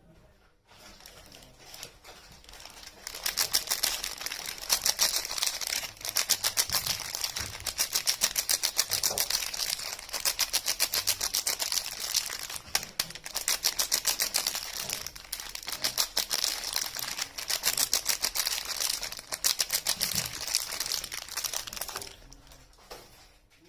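Soap and its packaging being handled, giving a fast, even run of crisp ticks and crackles that starts about three seconds in and stops near the end.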